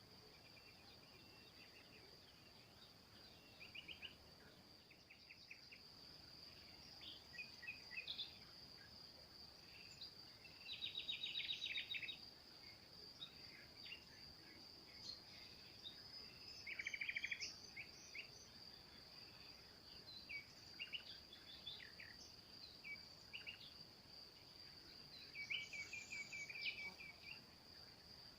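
Faint forest birdsong: several small birds giving short chirps and rapid trills, two of the trills louder near the middle, over a steady high-pitched insect drone.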